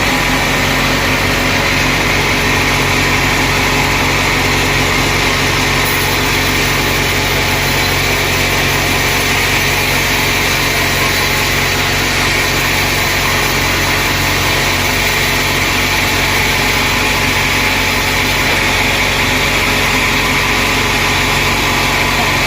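Sawmill machinery running steadily, an even engine hum that holds without change.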